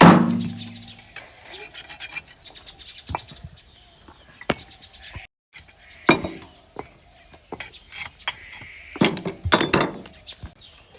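A loud bang at the start with a short low ring that fades over about a second, followed by scattered knocks, clicks and clinks of objects being handled.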